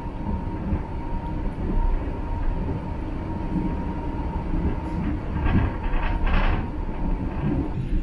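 State Railway of Thailand sleeper train running along the track, heard from inside the carriage: a steady low rumble of wheels on rails with a faint steady whine. A few brief louder rattling noises come about five and a half to six and a half seconds in.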